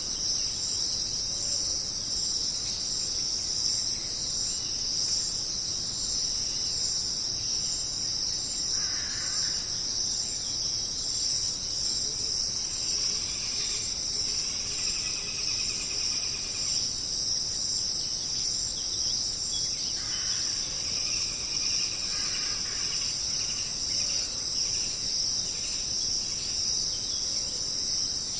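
Steady, high-pitched chorus of insects that never lets up. A few fainter, lower calls come and go over it.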